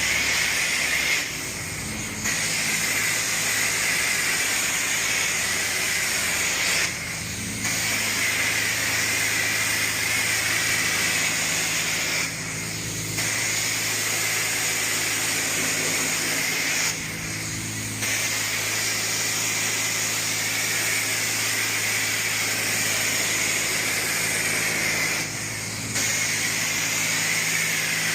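High-pressure rinse water spraying from a self-serve car wash wand onto the bay floor, a steady loud hiss that dips briefly five times, with a low steady hum underneath.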